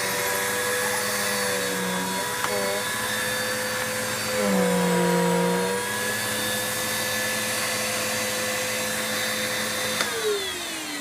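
Bissell upright vacuum cleaner running, its motor whine steady, with the brushroll turned by a makeshift belt cut from a lawnmower inner tube. About halfway through the pitch sags briefly under load, and near the end the vacuum is switched off and the motor winds down, its whine falling.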